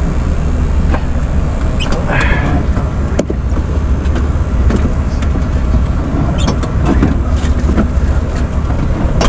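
Steady low engine rumble of an idling semi truck heard inside its cab, with a few light clicks and knocks of items being handled.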